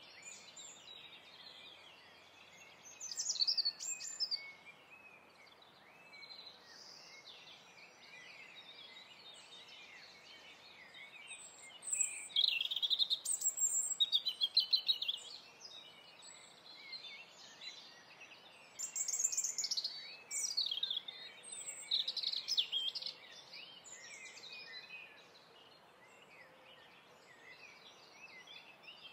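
Birds chirping and singing over a faint steady hiss. There are short, quick calls and trills in bouts: a burst about three seconds in, the busiest stretch around twelve to fifteen seconds, and more around nineteen to twenty-three seconds.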